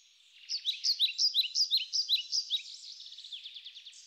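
A songbird singing: a quick run of loud, falling notes, several a second, then a softer, faster trill from about halfway through.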